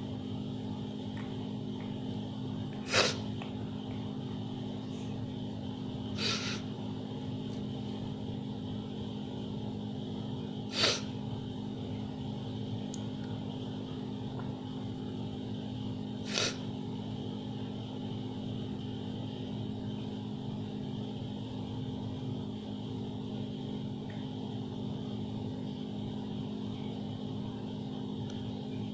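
A dying cat gasping four times, a few seconds apart and irregularly spaced, each gasp short and sharp: the laboured, gasping breaths of a cat near death. Under them runs a steady hum.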